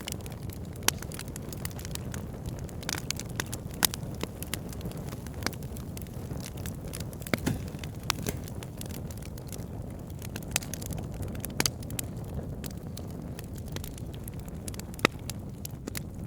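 Wood fire burning with a steady low rush of flames and irregular sharp crackles and pops from the logs, a few louder snaps standing out.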